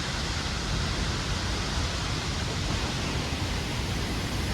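Steady rush of a large waterfall, Sipi Falls, an unbroken noise with no pitch or rhythm.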